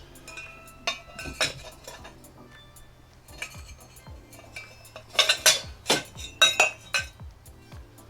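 Cut lengths of steel exhaust pipe clinking and clanking as they are handled and set against each other, each knock leaving a short metallic ring, with a cluster of louder knocks a little past the middle.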